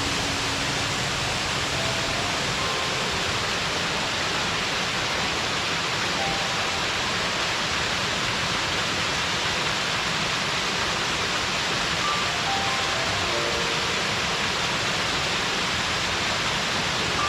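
Waterfall in a mountain gorge: water falling and rushing in a steady, unbroken roar.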